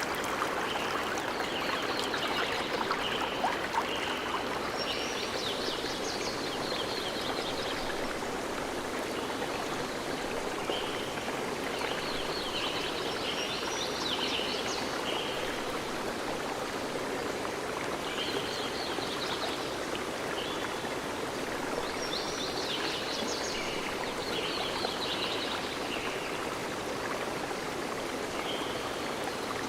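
A forest stream flowing steadily, with birds singing above it in repeated short chirping phrases every few seconds.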